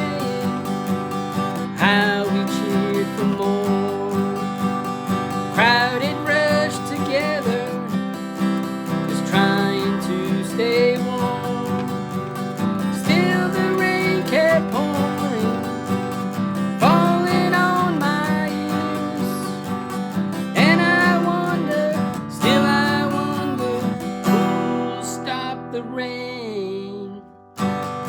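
Instrumental break of a folk-rock song: acoustic guitar strumming steady chords under a melodic lead line whose notes slide and bend every few seconds. The music briefly drops away just before the end.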